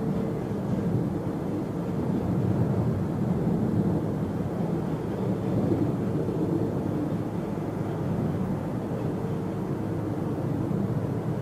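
Jet airliner engines making a steady, low rumble with a faint steady hum on top.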